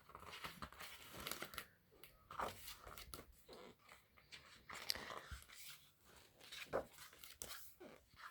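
Thick pages of an album photobook being turned and handled: irregular, quiet paper rustles with soft taps.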